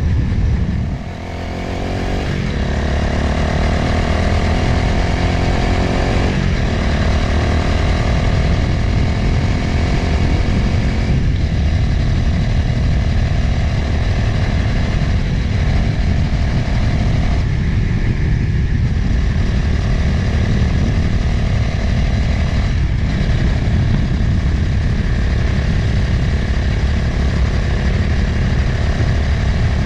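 Motorcycle engine running under way with wind rushing over the microphone. The engine note dips about a second in and breaks off briefly several more times.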